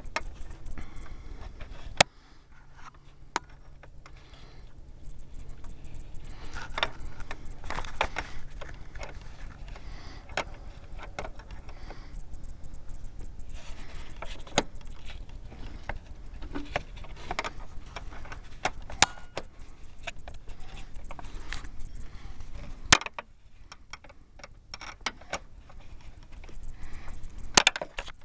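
Hand wrench clinking and scraping on a bolt head and surrounding metal as the bolt is tightened a small part-turn at a time, with scattered sharp metallic clicks and a few louder clanks.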